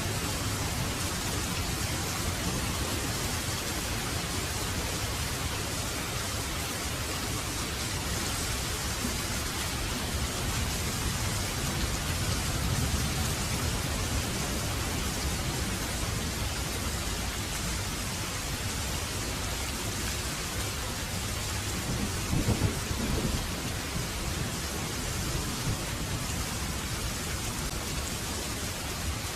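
Heavy rain falling steadily, with low thunder rumbling underneath and a louder roll of thunder about three quarters of the way through.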